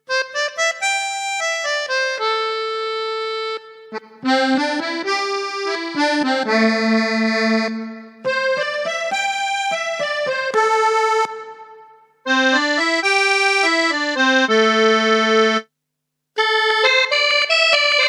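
Yamaha PSR-SX series arranger keyboard playing short melodic phrases and chords on one of its sampled voices. The voice has sustained, reedy tones. The phrases are separated by brief pauses, with one short silent gap near the end.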